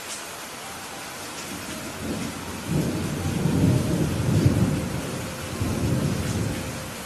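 Steady rain with a low, rolling rumble of thunder that builds about two seconds in, peaks in the middle and dies away near the end.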